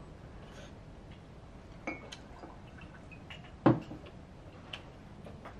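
Tableware sounds while eating: a few short clicks and taps of chopsticks and dishes, the loudest about three and a half seconds in.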